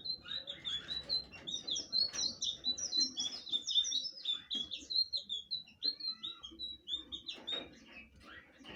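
Blue flycatcher (sikatan biru) singing a fast, continuous run of short, high whistled notes, with a brief break about six seconds in.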